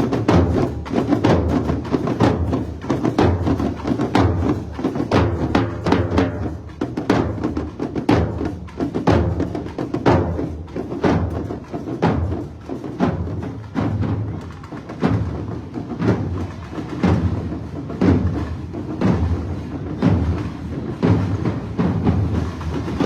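Carnival parade music driven by drums and percussion, with a steady, even beat of drum strokes and sharp wood-block-like clicks.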